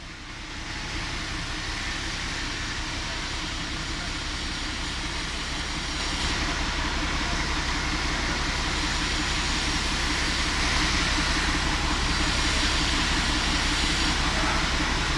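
Heavy diesel machinery running while the boom lifts the load. It revs up just after the start and gets louder again about six and eleven seconds in.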